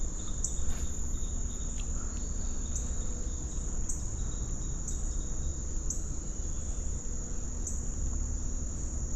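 Insects chirring: a steady high-pitched drone with a short accent about once a second, over a low rumble.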